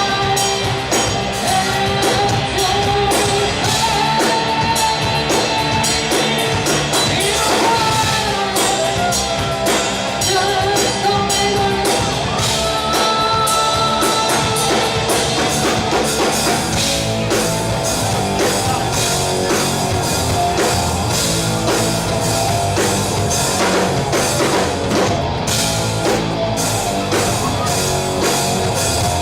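Rock band playing live, with a full drum kit and electric guitar under a held, gliding melody line.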